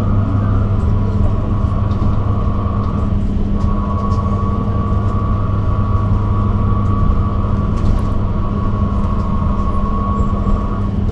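Cabin noise of an electric bus riding along: a steady low hum with a thin, high, even whine from the electric drive over a rumbling background.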